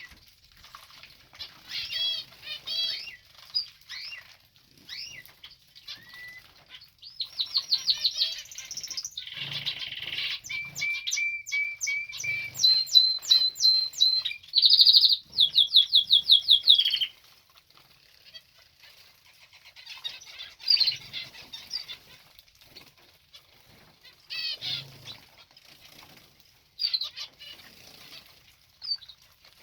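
Small aviary birds chirping and singing over the fluttering of wings as they bathe. A busy run of fast, repeated trilled notes runs from about seven to seventeen seconds in, with sparser chirps either side.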